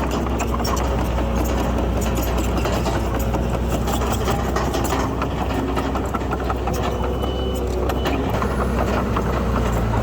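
Heavy diesel earthmoving machinery running steadily under load, a deep continuous engine hum with a dense rattling clatter over it.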